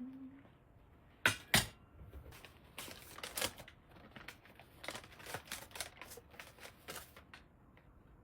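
Irregular clicks and light knocks of handling: two sharp clicks about a second and a half in, then a scatter of smaller taps that die away near the end.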